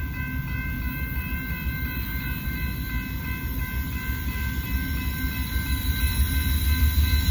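Railroad crossing bell ringing steadily over the low rumble of an approaching Union Pacific grain train, the rumble growing louder over the last couple of seconds.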